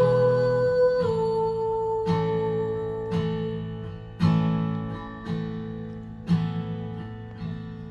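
Acoustic guitar strummed in a slow song, one chord about every second, with a long held melody note over the first few seconds; the playing grows gradually quieter toward the end.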